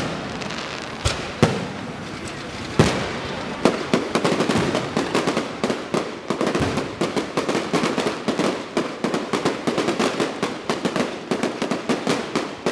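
Electronically fired fireworks going off: a few separate sharp bangs in the first few seconds, then dense rapid crackling from about four seconds in.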